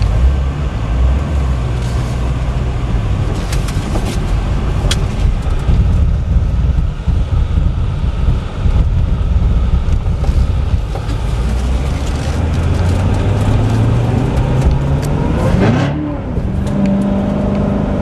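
Corvette Z06's supercharged 6.2-litre LT4 V8 running under way, with road noise. Near the end the revs climb quickly, drop sharply, then hold steady at a higher pitch.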